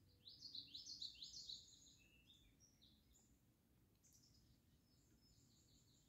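A songbird singing: a fast, high run of chirps about a second long near the start, a few softer notes after it, and a fainter second song about four seconds in.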